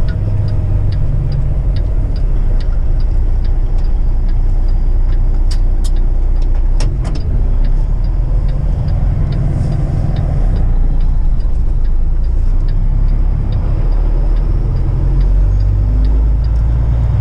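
Kenworth truck engine and road noise heard inside the cab while driving, a steady low rumble, with a light regular ticking about three times a second and a few sharp clicks about six seconds in.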